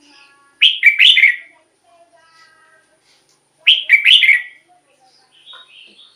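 Red-whiskered bulbul singing: two short, loud phrases of quick warbled notes about three seconds apart, with faint softer notes between them.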